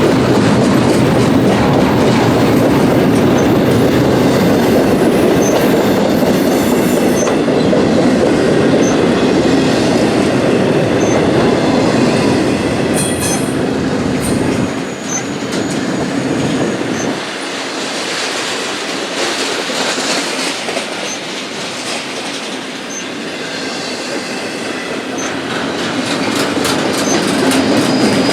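Union Pacific freight train cars rolling past, steel wheels rumbling and clattering on the rails. The sound eases for several seconds past the middle, then builds again near the end.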